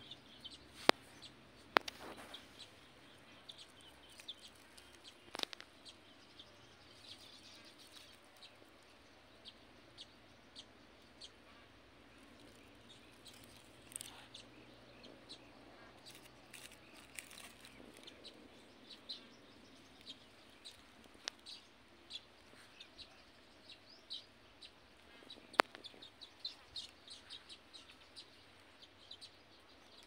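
Faint outdoor ambience with birds chirping in many short, high calls, more of them near the end, and a few sharp clicks.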